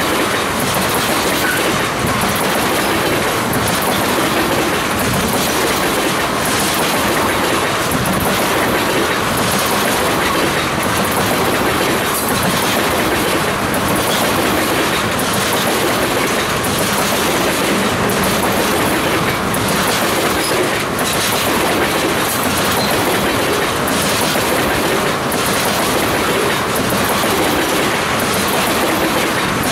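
Loaded crude-oil tank cars of a freight train rolling past close by: a steady, loud rush of steel wheels on rail, with clicking as the wheelsets cross rail joints.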